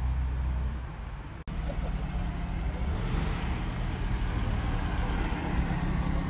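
Engine of a small classic saloon, a Vanden Plas Princess, running at low speed as the car drives slowly past close by, growing louder about three seconds in as it nears. Before a sharp cut about a second and a half in, a car engine is idling.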